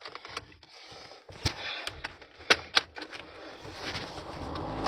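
A few sharp clicks, then a car engine starts near the end and runs steadily on a jump start from a flat battery.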